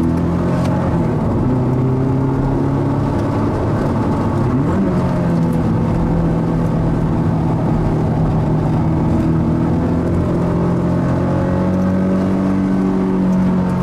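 Mazda NC Roadster's stock four-cylinder engine running steadily under way, its pitch rising briefly about a third of the way in and then holding level.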